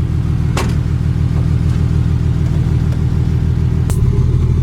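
Turbo Cummins diesel of a Dodge Ram 3500 running steadily at low revs close by as the truck creeps backward, with two sharp clicks, one about half a second in and one near the end.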